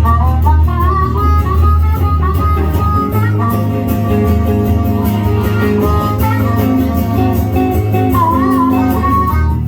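Band playing an instrumental break: a harmonica lead plays a bending melody over guitar, bass and drums with steady cymbal strokes.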